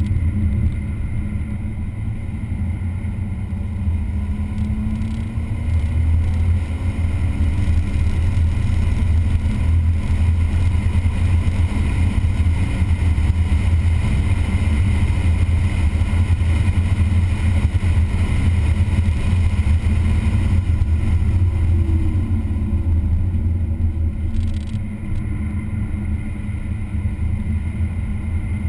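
Engine of a vehicle lapping a race track: a loud, steady low drone whose pitch glides up and down a couple of times as it changes speed.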